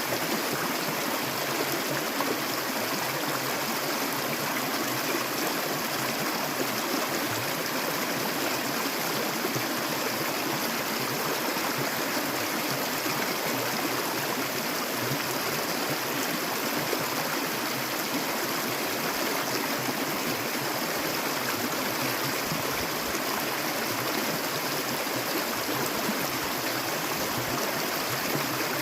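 Stream water flowing steadily, an even, continuous rush of running water with no breaks.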